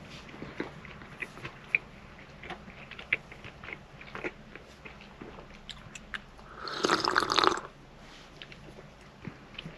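Close-up sounds of a person eating: small crunches and clicks of chewing and cutlery, with a louder noisy sound lasting about a second roughly seven seconds in.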